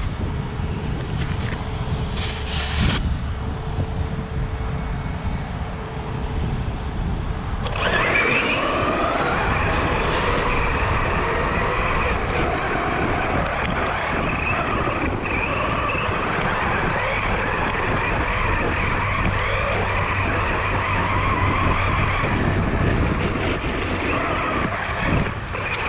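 ARRMA Talion 6S RC car's brushless motor whining as it drives, its pitch sweeping up and down with the throttle. It gets suddenly louder about eight seconds in; before that there is a steadier hiss.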